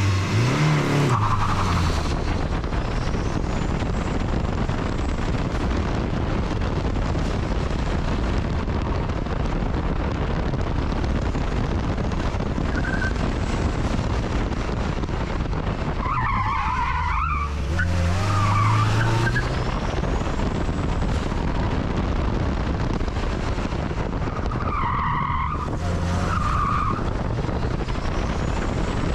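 Acura RSX Type-S four-cylinder engine running hard on an autocross run in first gear, revs rising and falling, with tires squealing through the corners several times.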